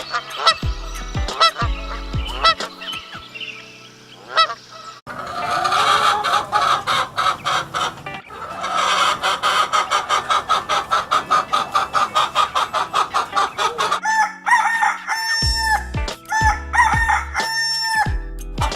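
Chickens clucking, with a long run of quick, evenly repeated clucks in the middle and a few louder calls near the end, over background music.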